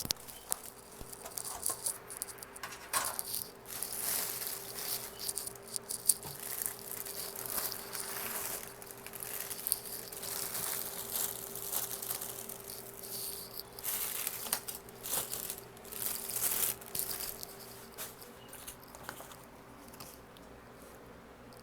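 Takeout food packaging and plastic utensils being handled, a string of short crinkles, rustles and clicks that thins out near the end, over a faint steady hum.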